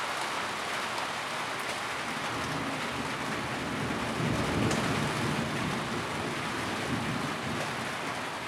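Steady rain drumming on a tin roof, a dense even patter. About four seconds in, a low rumble swells up for a couple of seconds and then fades back under the rain.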